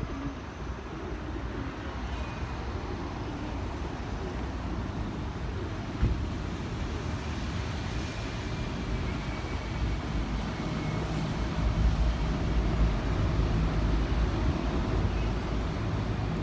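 Steady low rumble of city traffic, growing a little heavier in the second half, with one sharp knock about six seconds in.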